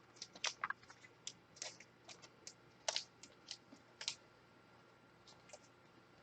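Light, irregular clicking and tapping of trading cards and plastic card holders being handled, busiest in the first four seconds, then only a few clicks.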